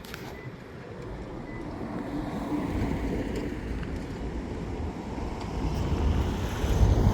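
A road vehicle approaching, its rushing rumble growing steadily louder.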